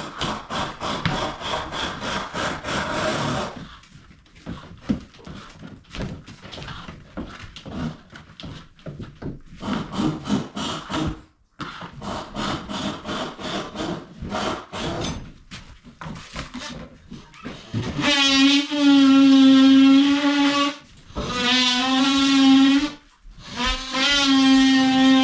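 Fast rhythmic rasping strokes on wood, then irregular knocks and scrapes. Near the end, a tool motor runs at a steady pitch in three bursts.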